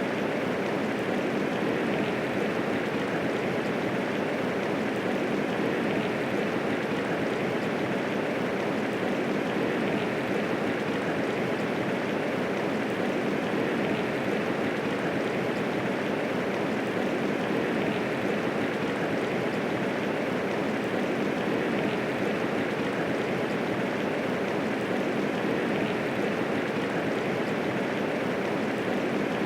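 Steady medium rainfall: an even hiss of rain falling, unchanging throughout.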